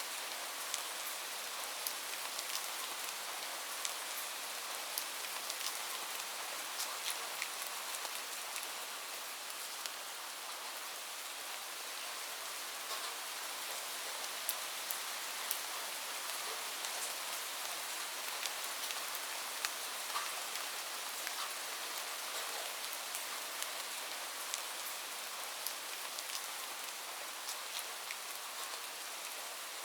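Light rain falling steadily, a soft even hiss with many small drops ticking on a surface.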